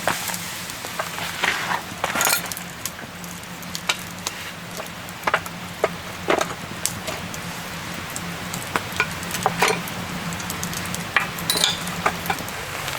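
Food sizzling in a pan, with scattered clicks and clinks of utensils against cookware.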